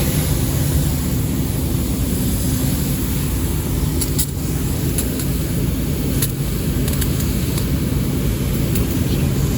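Commercial rooftop A/C unit running: a steady, loud hum of fan motors with a few faint ticks.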